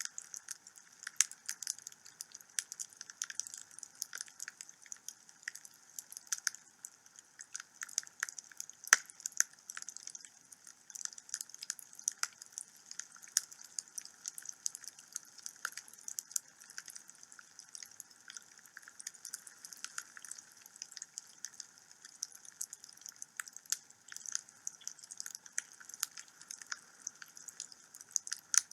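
Wood fire burning in a fireplace: a steady, uneven stream of small crackles with occasional louder pops over a faint hiss.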